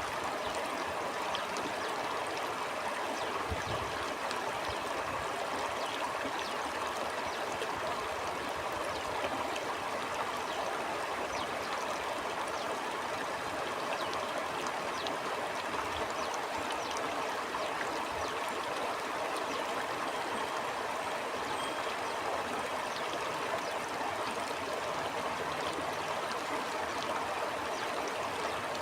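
Stream flowing steadily: a continuous rush of water with many small splashes throughout.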